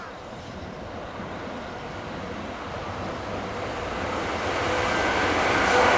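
Approaching container freight train hauled by an EF66 electric locomotive: a steady rumble of wheels on rail that grows louder throughout as the train nears.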